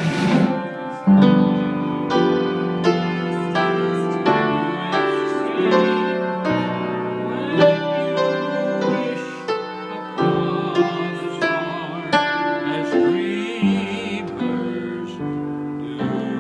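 Piano playing a run of notes and chords, with a singing voice joining in at times.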